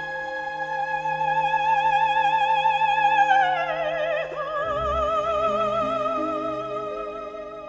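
Operatic singing with accompaniment: a high note held with a wide vibrato slides down about four seconds in to a lower held note, which fades near the end.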